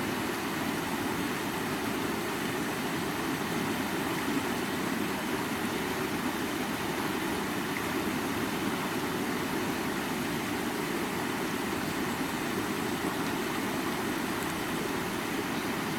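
Water of a stream running over rocks: a steady, even rush.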